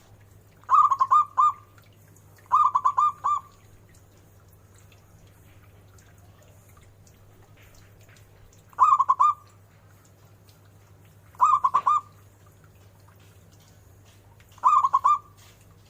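Zebra dove (perkutut) cooing: five short phrases of quick rolling notes, each under a second, spaced a few seconds apart.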